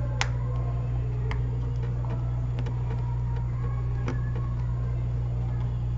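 Steady low hum of bench equipment with a few sharp, light clicks of small tools working on the iPad's logic board.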